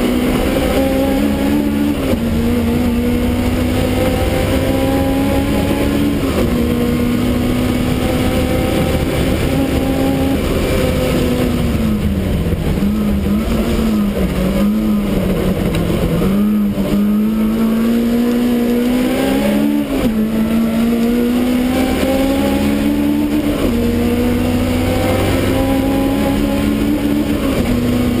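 Supercharged BMW E30 race car's engine heard from inside the cabin, running hard at high revs with a brief change in pitch every few seconds as gears are changed. About halfway through, the pitch drops and wavers as the car slows for a corner, then climbs steadily again as it pulls away.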